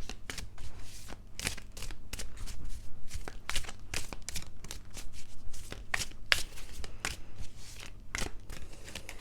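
Tarot cards being shuffled and handled: a quick, irregular run of card snaps and rustles.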